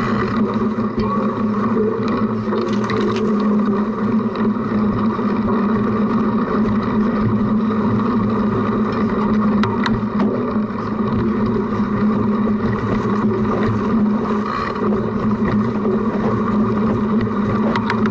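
Cyclocross bike riding over a rough course, heard through a camera mounted on the front of the bike: a steady drone of tyre and frame vibration, with a few faint knocks.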